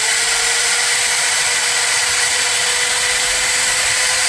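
Angle grinder motor running at full speed with a steady high whine, the grinder apparently being test-run after a bearing change.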